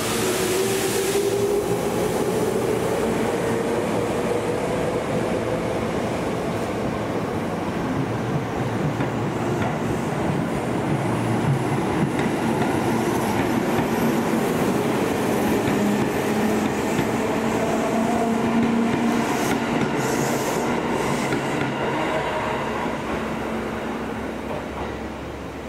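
Electric commuter train running through the station, wheels clattering on the rails, with a whine that rises slowly in pitch over the first several seconds; the sound falls away near the end.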